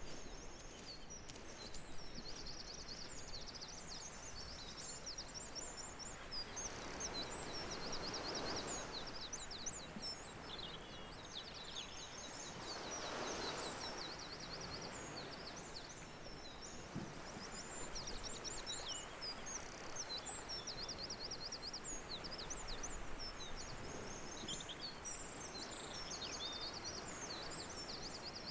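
Small birds chirping and trilling continuously in high, rapid phrases over a steady outdoor hiss. Two broader rushing swells rise and fall about a third of the way in and again near the middle.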